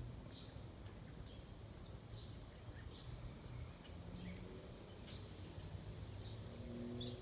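Small birds chirping, scattered short high chirps every half second or so, over a faint low steady rumble.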